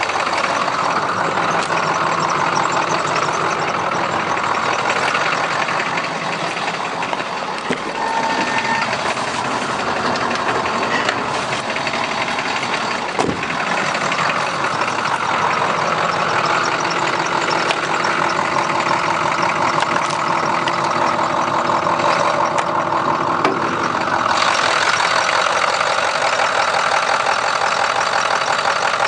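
Ford 6.0L Power Stroke turbo-diesel V8 idling steadily while still cold, less than two minutes after a start in about zero-degree cold. About 24 seconds in, the high end of its sound becomes louder and stays so.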